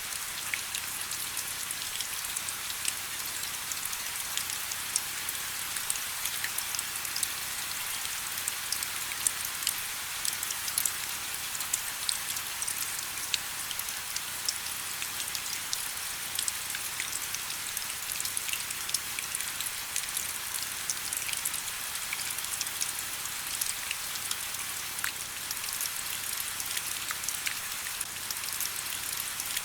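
Steady rain: an even hiss of falling rain dotted with many small, sharp drop ticks, unchanging throughout.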